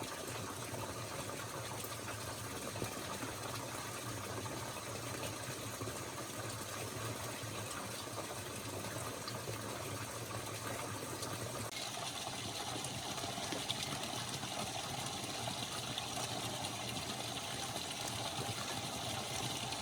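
Steady rushing of running water, which grows louder and brighter about twelve seconds in.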